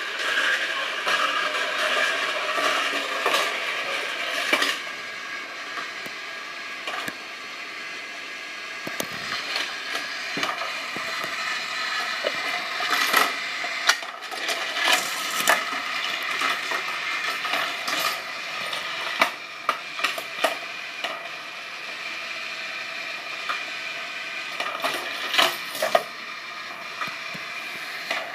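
Die-cast Tomica toy cars rolling and rattling down a plastic playset track, a continuous clatter with many sharp clicks and clinks.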